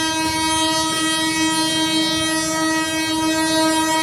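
Indian Railways locomotive horn sounding one long, steady, single-pitch blast over the low rumble of the train.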